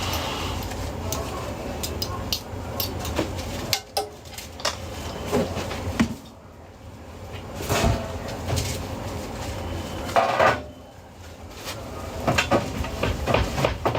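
Irregular clinks, taps and knocks of utensils and cookware being handled, over a steady background hum.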